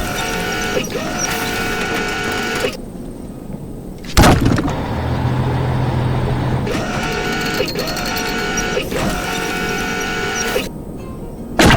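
Cartoon machine sound effects: a steady, high mechanical whine with a few short pitch bends, cut by a loud crash about four seconds in and another near the end.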